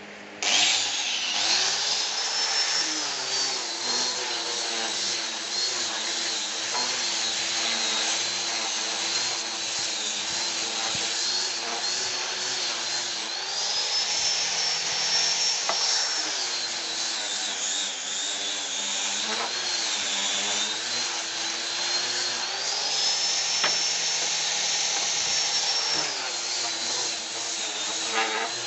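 Electric wood router starting up about half a second in and running, a high motor whine that sags in pitch several times and recovers, as it does when the bit takes load cutting wood.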